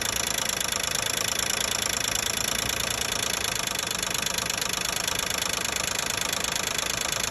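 2012 Nissan Maxima 3.5-litre V6 engine running steadily with a fast, even rattling and knocking, which the owner takes for a noisy intake camshaft sprocket.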